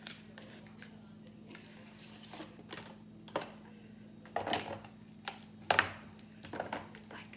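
Light clicks and knocks of packages and containers being set into a refrigerator as it is restocked, the loudest about four and a half and six seconds in, over a steady low hum.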